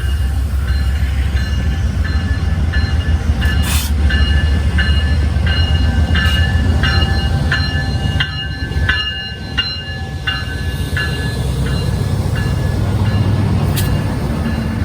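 Train passing with a steady low rumble. Over it, a ringing tone repeats about twice a second and fades out about two thirds of the way through.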